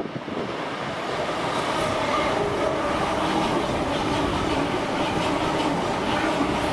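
TransPennine Express Class 802 bi-mode train passing along the platform. The rumble of wheels and engines builds over the first second, then holds steady, with faint regular clicks of wheels over rail joints.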